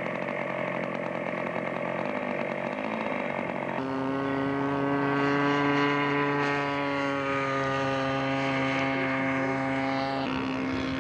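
Engine of a radio-controlled scale model airplane running in flight. About four seconds in, a louder, steady buzzing engine note takes over, sinks slightly in pitch, then cuts off abruptly near the end.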